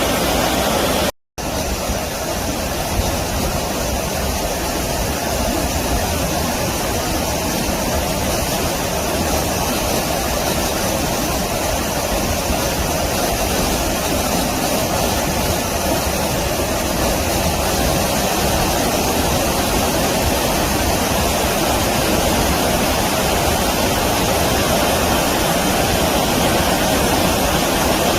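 Stream water flowing in a steady, unbroken rush. It drops out completely for an instant about a second in, then carries on as before.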